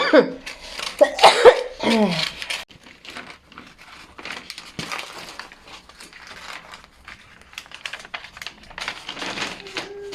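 A short burst of voice or coughing at the start, then faint scattered rustling and light clicks of things being handled.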